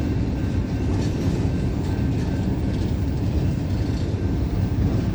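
CSX intermodal freight train rolling slowly past: a steady low rumble of railcars and wheels on the rails.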